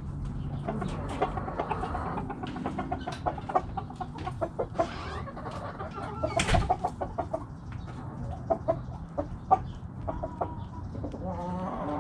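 A flock of hens clucking, with many short clucks overlapping throughout. A louder, sharper squawk comes about six and a half seconds in, and a longer drawn-out call near the end.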